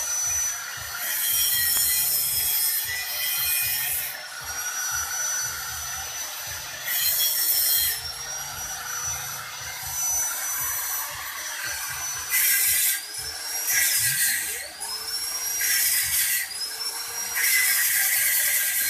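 Handheld power tool sanding or grinding the metal of a motorcycle exhaust in repeated passes. Its high whine dips in pitch and recovers each time it is pressed in, with louder scraping stretches about a second or two long.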